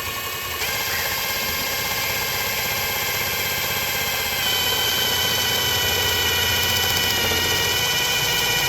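A small grass trimmer engine running steadily, stepping up louder about half a second in and again about four seconds in, when a strong high whine joins it.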